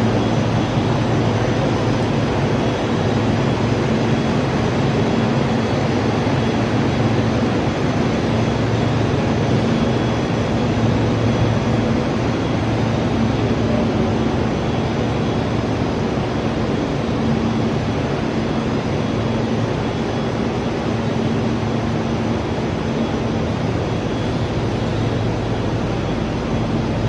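Rubber extrusion line with microwave and hot-air curing running: a steady machine drone with a low electrical hum.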